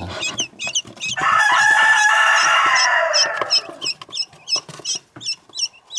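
Newly hatched quail chicks peeping, short high chirps about twice a second. About a second in, a loud crowing call like a rooster's rises over them for about two and a half seconds and trails off.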